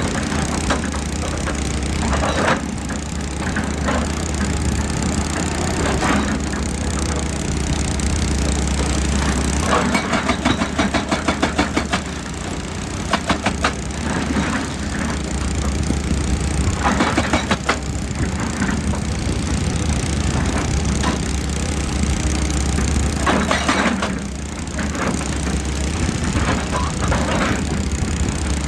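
Excavator's diesel engine running steadily under load, with short bursts of scraping and a run of rapid clattering about ten seconds in.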